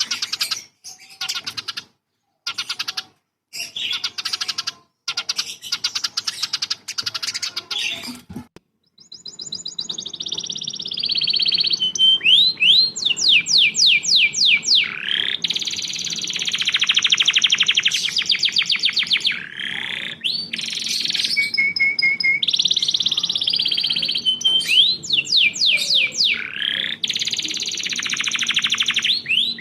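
Cage songbirds singing. First comes a rapid run of chirps broken by short gaps, then from about nine seconds a different bird's fast trills and repeated sweeping whistles over a steady low hum.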